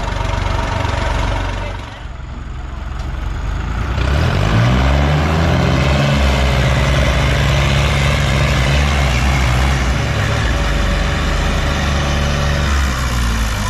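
New Holland tractor's diesel engine running, then revving up about four seconds in and held at full power under heavy load, easing off near the end.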